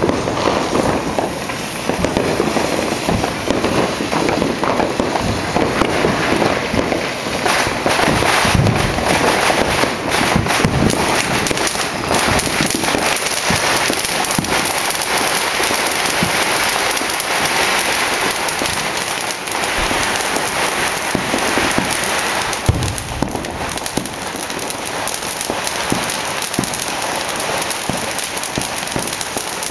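Dense, continuous barrage of New Year's fireworks and firecrackers, countless pops, bangs and crackles overlapping with no break, thinning slightly in the last several seconds.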